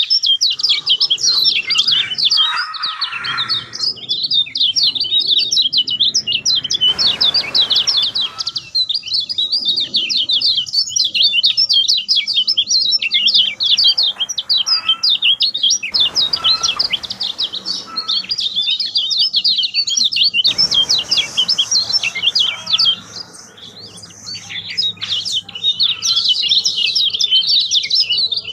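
Kecial kuning (lemon-bellied white-eye) singing continuously in full song: a fast, unbroken, high twittering of many short chirps.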